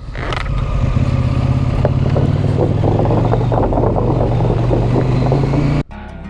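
Motorcycle engine running steadily, with a scatter of clicks and rattles over the middle of the clip. It cuts off suddenly near the end, giving way to acoustic guitar music.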